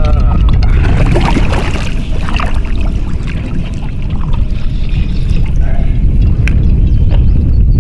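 Heavy wind rumbling on the microphone over water splashing and sloshing, with scattered small knocks.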